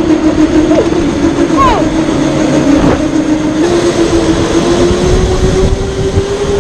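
Electric go-kart motor whining steadily, its pitch stepping up and then slowly rising as the kart gains speed, over heavy wind rumble on the microphone. A couple of short squeaks come in the first two seconds.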